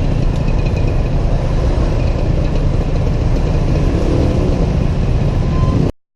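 Steady rumble of a Honda PCX 125 scooter riding through traffic, engine and wind noise together, cutting off abruptly about six seconds in.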